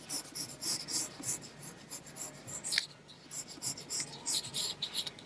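Pencil sketching on folded paper: a run of short, irregular scratchy strokes as the outline is drawn, with a short pause about halfway through.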